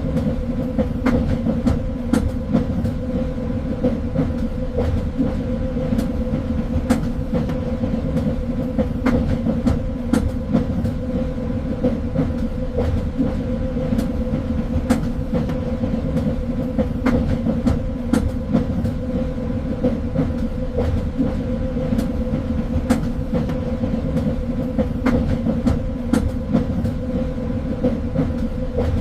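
Train running on rails: a steady low rumble with a constant hum, and sharp clicks of the wheels over the track at irregular intervals, about one every second or two.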